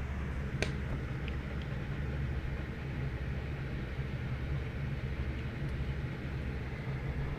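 Steady low mechanical hum, with a single sharp click a little over half a second in.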